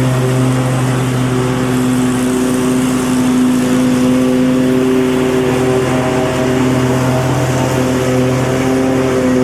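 Lawn mower engine running steadily at a constant pitch, with a rushing noise over the engine note.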